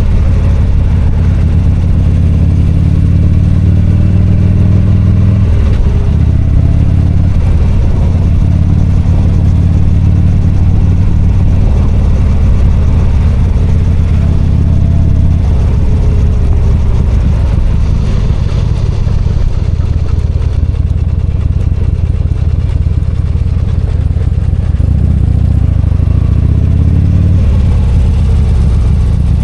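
V-twin motorcycle engine running steadily while riding, its pitch shifting as the bike slows and speeds up around six seconds in and again near the end, over road noise.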